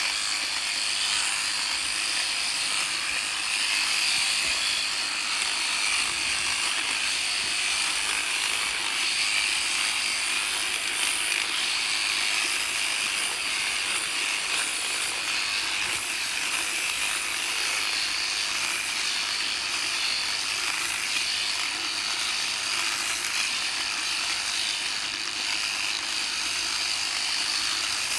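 Electric sheep-shearing handpiece running steadily, its cutter chattering across the comb as it clips through the fleece.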